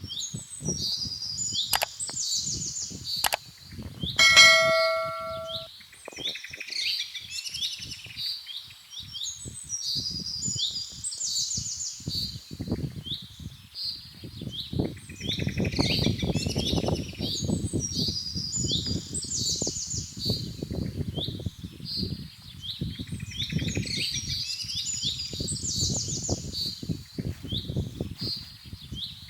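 Songbirds singing throughout in repeated chirping phrases. About four seconds in, a metal object is struck once and rings for about a second and a half, after a couple of sharp clicks; rough low noises of handling or movement run underneath much of the time.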